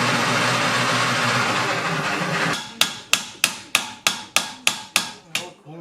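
A steady loud noise for about two and a half seconds cuts off, then a hammer strikes about ten quick blows in an even rhythm, roughly three a second.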